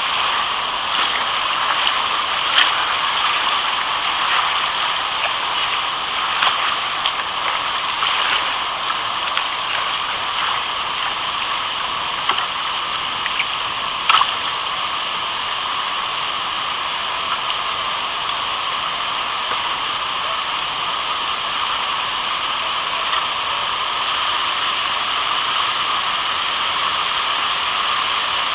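Steady rush of whitewater on a river, heard from a kayak, with a few short sharper splashy sounds in the first half, the clearest about fourteen seconds in.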